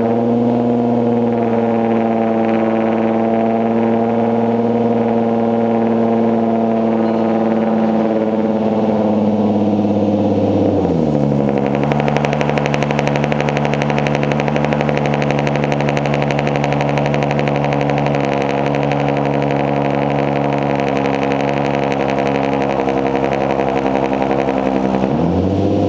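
Infiniti Q50's 3.7-litre VQ37VHR V6 running through a custom 3-inch stainless single-exit catback exhaust with a Vibrant resonator and 1060 muffler, held at a steady raised engine speed for about ten seconds. It then drops to a lower steady speed with a hissier edge, and near the end dips and begins to rise again.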